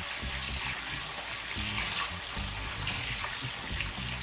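Garlic cloves and whole spices frying in hot oil in a wok, a steady sizzle, as a spatula stirs them.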